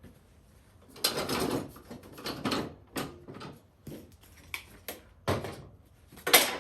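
Wooden boards being handled and set down, giving a run of irregular knocks and clattering thumps, the loudest near the end.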